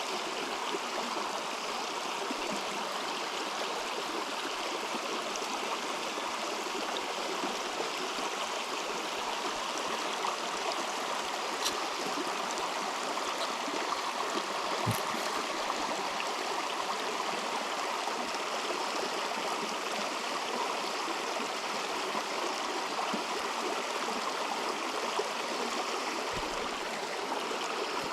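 River water flowing steadily, an even rushing sound, with a couple of brief clicks near the middle.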